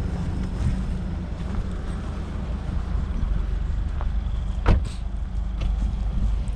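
Subaru WRX engine running through its newly fitted cat-back exhaust, a steady low rumble, with one sharp click about two-thirds of the way through.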